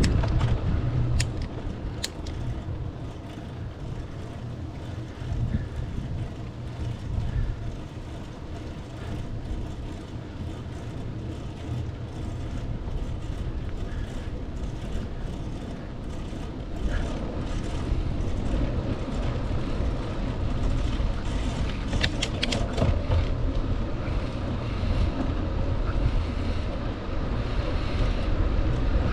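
Wind rumbling on the microphone of a moving bicycle, with a steady low roar, a few sharp clicks, and the rush growing louder in the second half.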